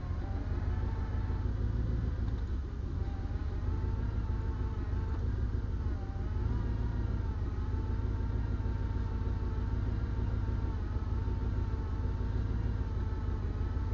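Truck engine running to drive a small hydraulic truck crane, its pitch sagging briefly about three times, as if pulled down by load, over a steady low rumble.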